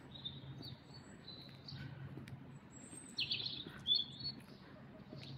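Small birds chirping and twittering, with a quick trill a little after three seconds in and a sharper high note just after it, over a faint steady low hum.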